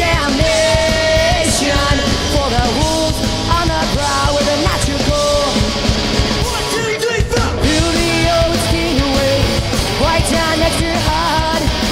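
Loud rock music with a singing voice over a driving beat. The bass and drums drop out briefly about seven seconds in.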